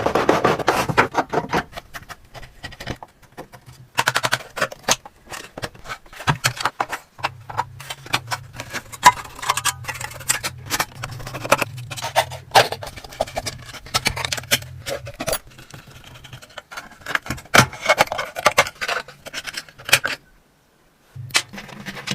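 Irregular clicks, taps and rattles of small metal parts and tools being handled while an antique carpet sweeper is worked on, with a low hum for several seconds in the middle.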